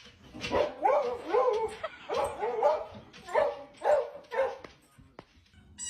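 Dog barking repeatedly: about six short, yowling barks that bend up and down in pitch over four seconds, then stop.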